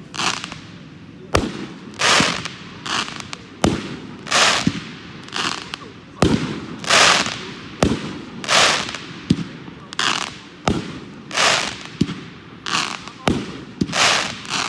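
Pyro Gal 12-shot consumer firework cake firing: a sharp launch thump about every second, each followed by a crackling burst lasting about half a second.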